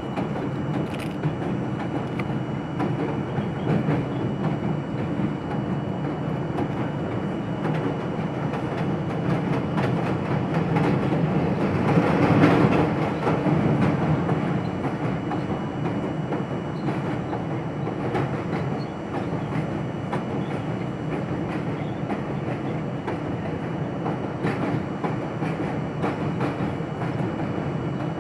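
R42 subway train running along the track, heard from inside the car: a steady running noise with wheels clicking over rail joints, growing louder for a moment about twelve seconds in.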